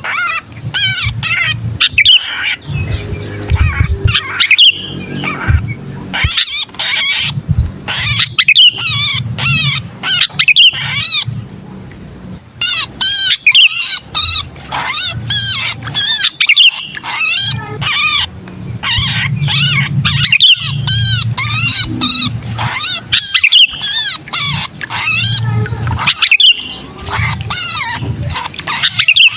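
Sooty-headed bulbul distress calls: the harsh, agitated chirping of a bird held or pinched, given in dense rapid bouts with brief pauses, over a low rumble. This is the 'kejepit' call used as a lure to bring other bulbuls down.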